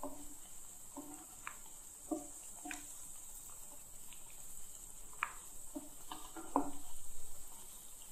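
Besan pakoris frying in hot desi ghee with a steady sizzle, while a wooden spatula knocks and scrapes against the pan several times as they are turned.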